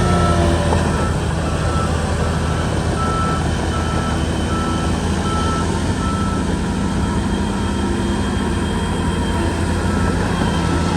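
Shantui bulldozer's diesel engine running steadily under load, with a reversing alarm sounding a string of evenly spaced single-pitch beeps as the machine backs up.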